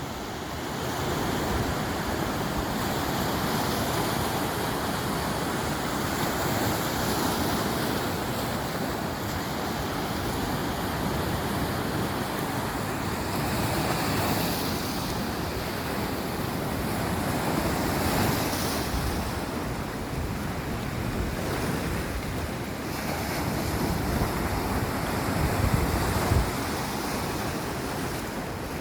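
Sea waves washing onto the shore in rolling swells, with wind buffeting the microphone, gusting harder near the end.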